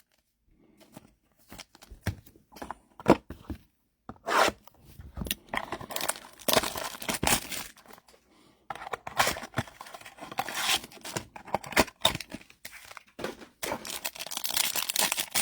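Trading-card pack wrappers being torn open and crinkled, with the cards inside rustling, in irregular scratchy spurts that grow denser near the end.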